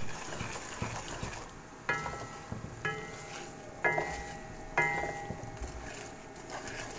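Wooden spoon stirring semolina as it fries in ghee in a pan. About two seconds in come four short ringing tones, about a second apart.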